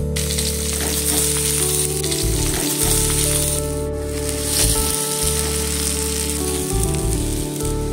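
Cashew nuts and then sliced onions frying in ghee in a clay pot, a steady sizzle with light stirring from a wooden spatula. Background music plays underneath.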